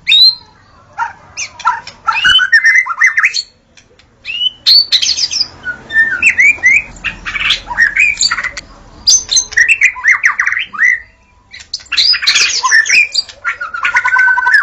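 White-rumped shama singing: rapid, varied phrases of whistled notes, sweeps and trills, delivered in bursts of a second or two with short pauses between them.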